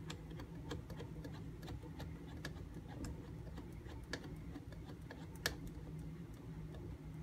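Knife blade stroked back and forth on a 4000-grit Nubatama Ume whetstone: faint, light clicks and scrapes, irregular at about two or three a second, with one sharper click about five and a half seconds in.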